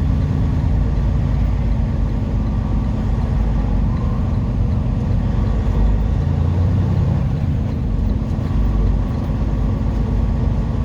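Semi truck's diesel engine running steadily at low speed, a deep hum with a slight swell about six seconds in.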